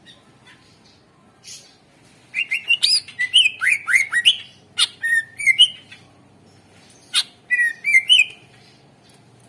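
Greater green leafbird (cucak ijo) singing. A burst of rapid, sharp whistled notes and chips starts about two seconds in and lasts about four seconds, followed by a shorter phrase near the end.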